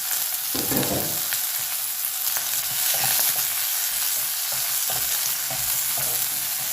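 Sliced onions and green chillies sizzling steadily in hot oil, frying toward golden brown, while they are stirred in the pan with small clicks and scrapes now and then.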